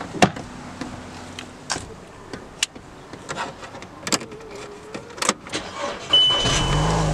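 Knocks and clicks of getting into a car and handling the key, then about six seconds in the car's engine is started with the ignition key and settles into a steady idle. A steady high dashboard warning tone sounds along with it.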